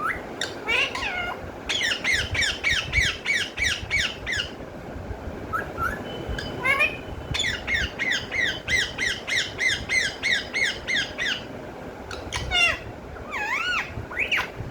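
Pet parrot giving two long runs of rapid, repeated short downward-sweeping squawks, about five a second, with a few gliding whistled calls between and after them.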